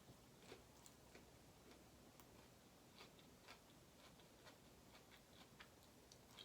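Faint, irregular small mouth clicks of someone chewing food, close to the microphone.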